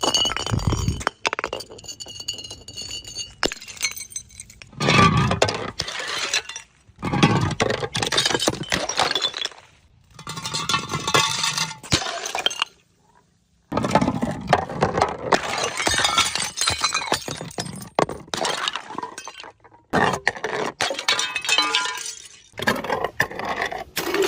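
Glass bottles breaking one after another: a series of separate shattering crashes, each followed by the clinking and tinkling of broken glass.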